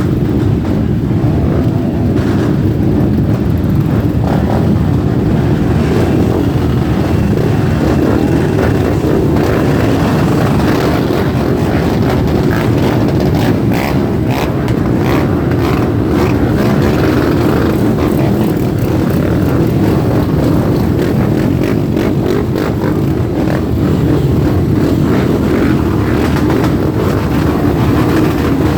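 Many motorcycle engines running together in a loud, continuous rumble, as a group of motorcycles rides off.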